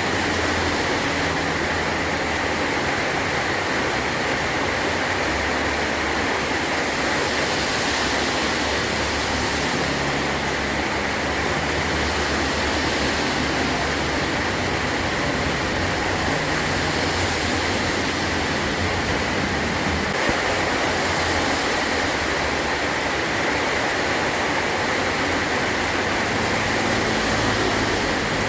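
Heavy rain falling steadily on a metal roof.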